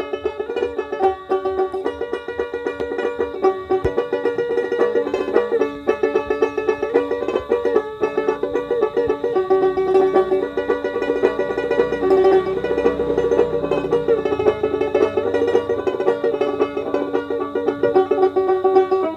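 Dotara, a fretless plucked lute with a goat-skin belly, played in a quick, continuous run of plucked notes that repeats a short melodic phrase.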